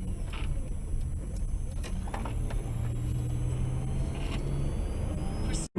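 Car driving, its engine and road noise running steadily with a few faint clicks, and a steady low hum in the middle. The sound cuts off abruptly near the end.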